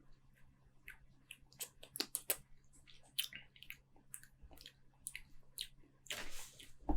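Mouth sounds of someone tasting barleywine: a string of wet lip smacks and tongue clicks as it is worked around the mouth, then a short breathy hiss about six seconds in and a low thump near the end.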